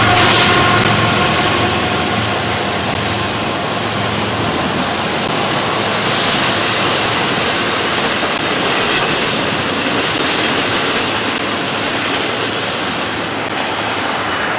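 Steady rolling noise of steel wheels on rail as the well cars of a long double-stack intermodal container train pass by.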